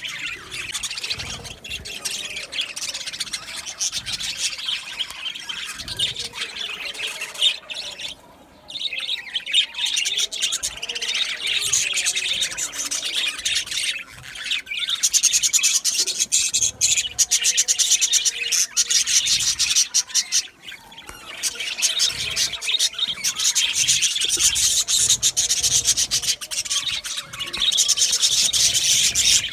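A flock of budgerigars chattering and warbling together, many birds at once in a dense, continuous chirping, with brief lulls about a third and two-thirds of the way through.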